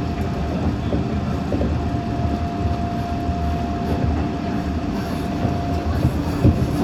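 Meitetsu 6500 series electric train running, heard from inside the car: a steady low rumble with a thin, steady whine over it, and a few sharp clicks near the end.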